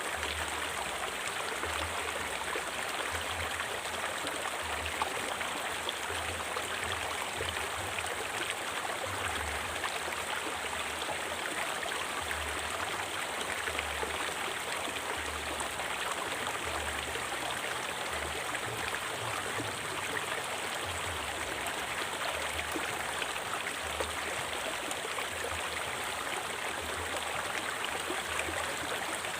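Forest river flowing steadily, water rushing and splashing over rocks.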